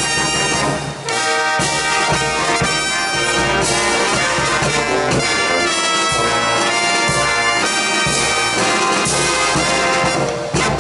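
Brass band music playing, with many horns sounding together.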